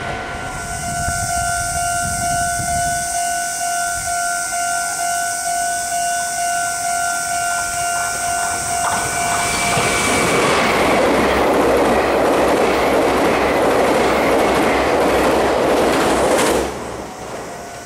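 Level-crossing warning bell ringing steadily. From about ten seconds in, a Meitetsu 2200-series express coupled to a 9100-series set passes close by with a loud rush of wheel noise that drowns out the bell, then cuts off suddenly near the end as the last car goes by.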